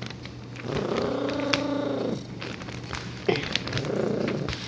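A cat's drawn-out low meow that rises and falls in pitch, lasting over a second, and a fainter one about three seconds in. Newspaper crinkles and clicks as the cat lies on it.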